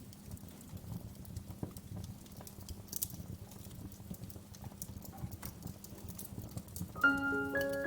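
Wood fire crackling, with irregular small pops and snaps over a low steady rumble. About seven seconds in, gentle music with soft bell-like melodic notes starts.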